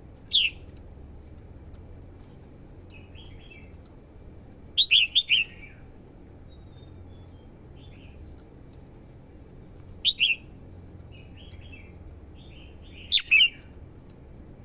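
Red-whiskered bulbul singing in short, loud, bright phrases: one near the start, a quick cluster about five seconds in, another about ten seconds in and a double near the end, with softer phrases in between.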